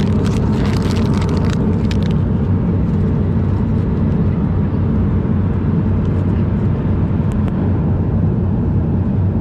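Steady, loud low drone of an Embraer E190 jet airliner's cabin in cruise, the turbofan engines and airflow heard from inside. A few short clicks and rustles sound over it in the first two seconds.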